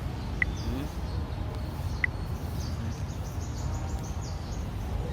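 Steady low background rumble with faint, quick high chirps of small birds, and two short sharp high pips, one near the start and one about two seconds in.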